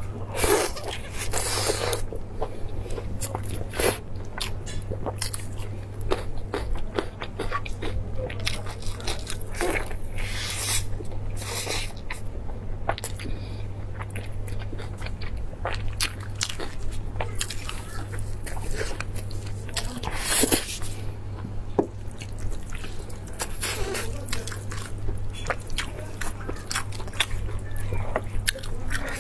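A person biting and chewing roasted beef ribs, with wet mouth sounds and many small crackles. There are a few louder crunches, about half a second in, near four seconds, around ten seconds and around twenty seconds. A steady low hum runs underneath.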